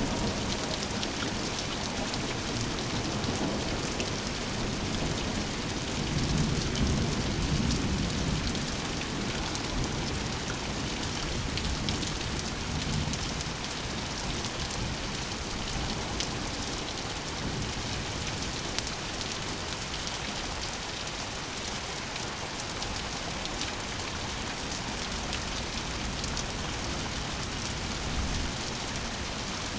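Steady rain falling hard, with low rolls of thunder, the loudest swelling about six to eight seconds in and a smaller one around twelve seconds.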